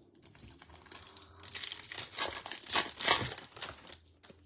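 Foil trading-card pack wrapper crinkling and tearing as it is ripped open by hand, loudest about three seconds in.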